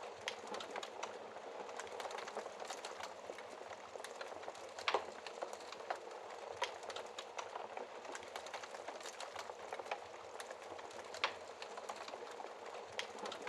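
Logs burning in a fireplace, crackling: a steady hiss of flame with frequent small snaps, and two louder pops about five and eleven seconds in.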